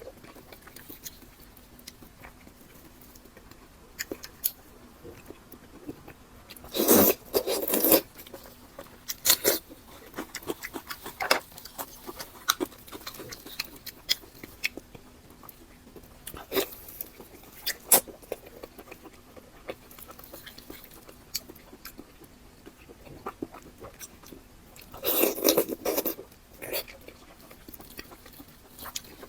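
Close-miked eating sounds: scattered wet mouth clicks and smacks of chewing, with two louder stretches of chewing, one about a quarter of the way in and one near the end.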